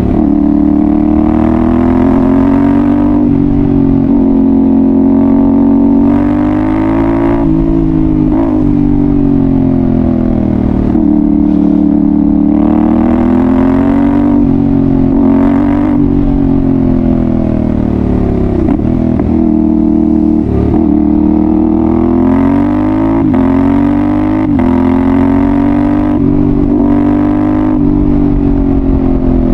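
2022 Yamaha Ténéré 700's 689 cc parallel-twin engine running loud through a Dominator GP1 aftermarket exhaust under way. The revs rise and fall in repeated swells every few seconds as the throttle is rolled on and off, with a couple of quick drops in pitch a little past the middle.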